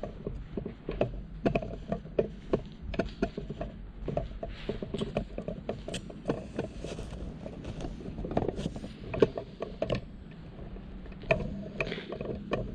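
Irregular knocks and clatter, several a second, over a low steady rumble.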